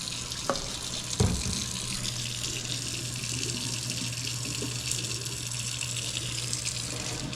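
Kitchen faucet running hot water into the sink in a steady stream, with a steady low hum underneath and a single knock about a second in.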